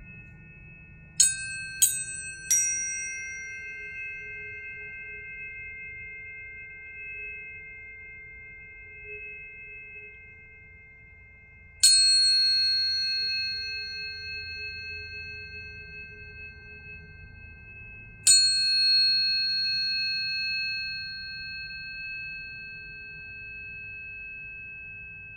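Planetary tuning forks struck in turn, three in quick succession near the start, then one about halfway and another about two-thirds through. Each strike gives a bright metallic ping, and several clear pure tones overlap and ring on, slowly fading.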